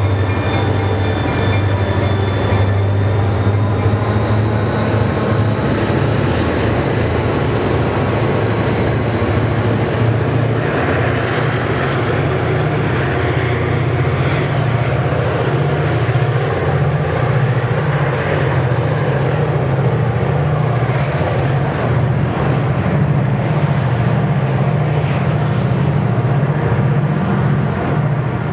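EMD diesel freight locomotives running under power, a loud steady low engine drone throughout. A few high steady tones fade out over the first several seconds.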